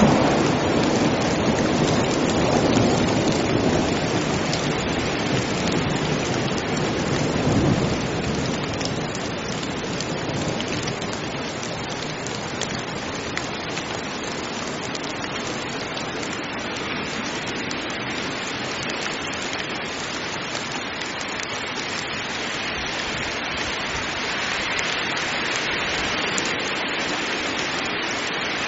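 Heavy rain pouring steadily, with a rumble of thunder in the first several seconds that fades away, leaving the even hiss of the rain.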